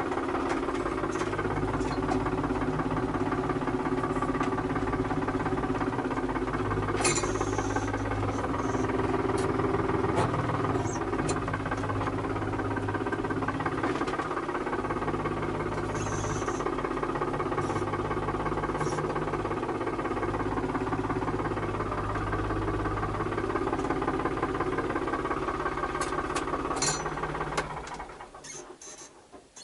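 Tractor engine running steadily, with scattered sharp metallic clanks and knocks over it. The engine sound drops away sharply near the end.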